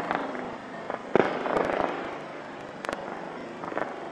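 Fireworks bursting: a run of irregular bangs and crackles, the loudest a little after a second in.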